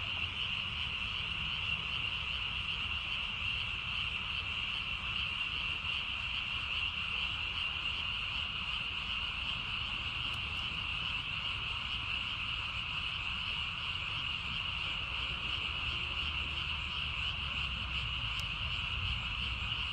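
Dense breeding chorus of Japanese tree frogs, many males calling at once so that their calls merge into a steady, unbroken high-pitched din.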